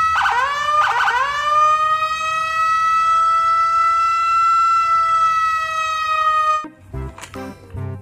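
Police siren: two quick rising whoops, then one long steady wail that cuts off suddenly near the end.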